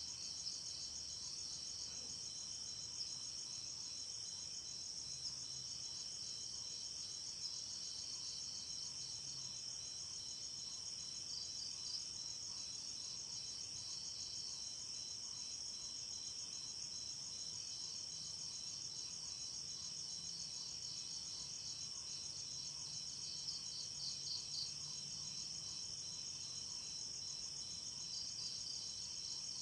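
Chorus of crickets and other night insects chirping steadily, a dense fast trill high up over a pulsing steady tone just below it.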